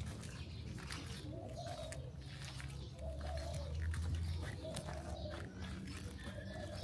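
Pigeons cooing, a short low arching call repeated every second or two, over a steady low city rumble and scattered small clicks.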